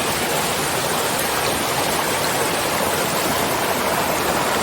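Small babbling brook: a steady rush of running water.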